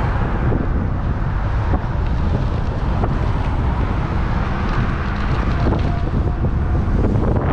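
Wind buffeting the microphone of a GoPro riding on a moving electric bike, a steady low rumble with a few faint ticks.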